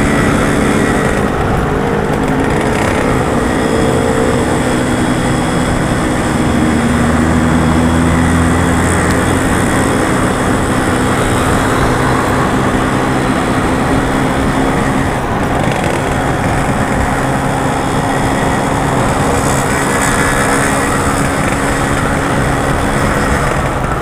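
Yamaha RX-King's two-stroke single-cylinder engine running under way, its pitch rising and falling with the throttle and gear changes, over steady road and wind noise.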